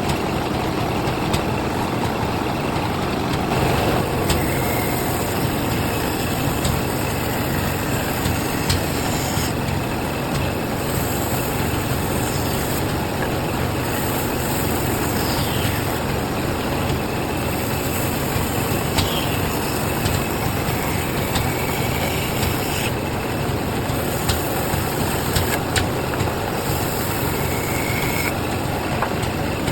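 Bandsaw running steadily, its blade cutting wood, with a constant motor hum.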